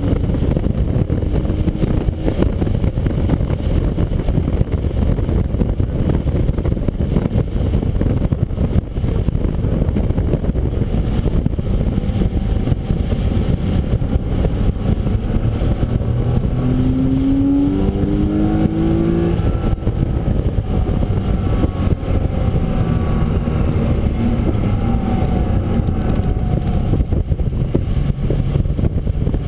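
Race-track car engine running under load, heavy low rumble of wind and road noise over it. About halfway through, the engine note climbs in several short rising steps, like revving up through the gears.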